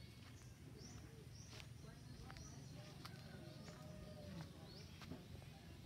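Faint rural ambience: small birds giving short, rising chirps about every half second, over a low steady rumble.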